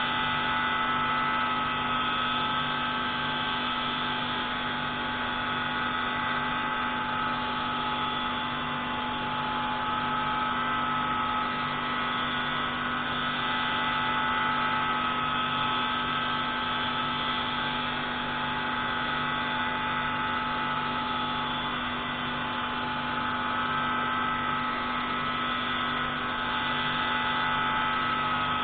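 Pneumatic valve grinding tool running steadily on a MAK 601C marine engine's intake valve: a constant mechanical hum with several steady tones and a low note that pulses evenly.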